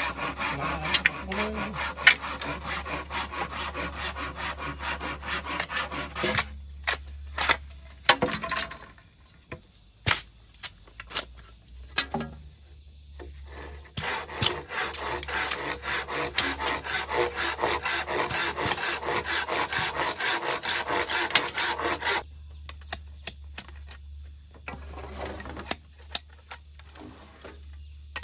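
Wood being sawn by hand in rapid back-and-forth strokes, in two bouts of several seconds each. In the pause between them and after the second bout come a few sharp knocks.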